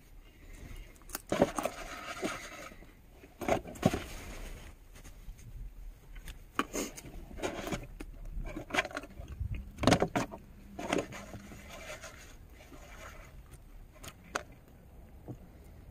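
Irregular rustling and scraping with sharp clicks and knocks, of things being handled, in bursts every second or two.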